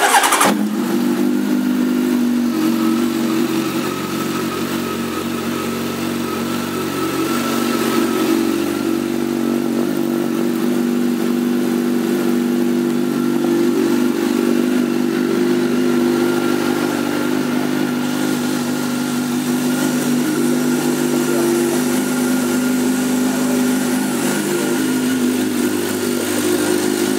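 A 2003 Honda CBR1100XX Blackbird's inline-four engine idling steadily through an aftermarket Akrapovic exhaust. It cuts in abruptly at full level.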